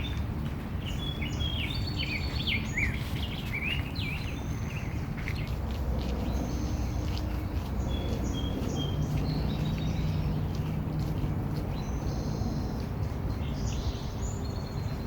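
Small birds chirping and calling in quick short notes, busiest in the first few seconds and sparser later, over a steady low background rumble.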